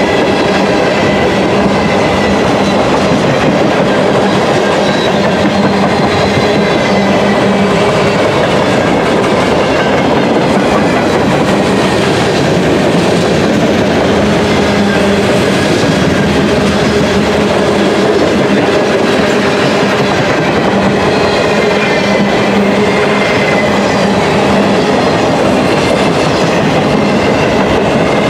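Freight train cars (boxcars, tank cars and covered hoppers) rolling past close by, steel wheels running on the rails with a loud, steady rumble. Faint high ringing tones come and go over it.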